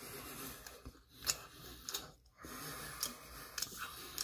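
A person chewing a mouthful of pizza crust close to the microphone: soft crunching, broken by a few sharp crackles.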